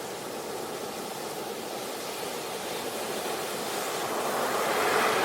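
Steady rush of waves breaking, swelling louder near the end.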